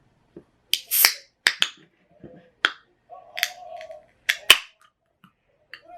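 A string of sharp clicks and knocks, about a dozen spread over a few seconds, like hard objects being handled and set down.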